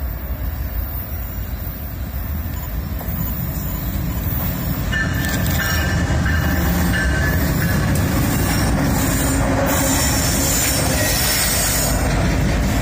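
A freight train's string of diesel locomotives passes close by, the engines growing louder as the units come alongside. A short high wheel squeal comes about five seconds in, and the wheels click over the rail joints.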